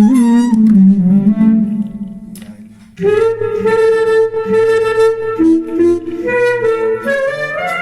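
A slow solo melody in a reedy, clarinet-like tone from a Zoom G3n multi-effects pedal's clarinet sound. A note fades away, then about three seconds in a new note is held for a couple of seconds, followed by shorter notes that climb in pitch near the end.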